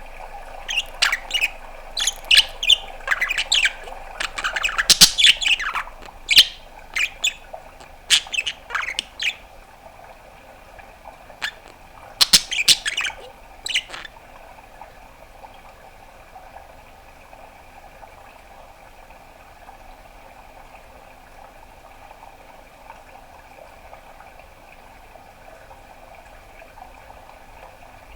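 Budgerigar chirping and squawking in quick, sharp calls for about the first half. It then falls silent, leaving only a faint steady hum.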